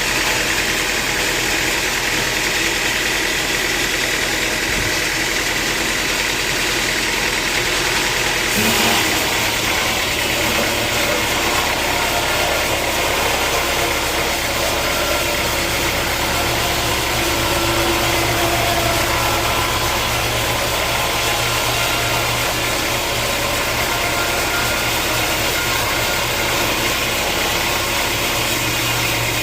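Sawmill machinery running steadily with a constant mechanical hum. About nine seconds in, its sound shifts and a deeper hum comes in.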